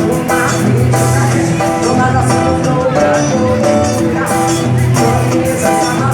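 A band playing music loudly and without a break.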